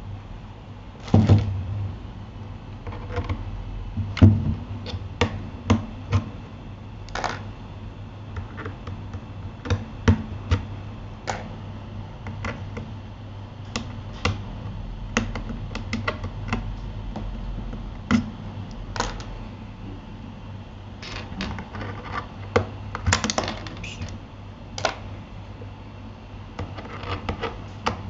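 Scattered plastic clicks and clacks from a Keychron K8 mechanical keyboard being handled, a few dozen at uneven spacing with some quick clusters, over a low steady hum.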